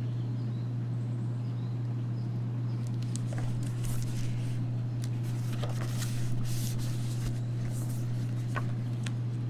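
Steady low electrical-sounding hum, with a few soft paper rustles from the pages of a picture book being handled and turned.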